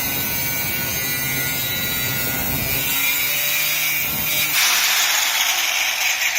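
Angle grinder running against the exhaust pipe metal, a loud steady whine with a hiss; the sound shifts brighter about four and a half seconds in and cuts off abruptly at the very end.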